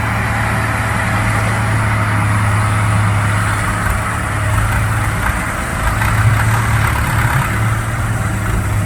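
Heavy diesel engine running steadily with a deep, even hum, from the construction machinery at an earthworks site where an excavator is loading dump trucks.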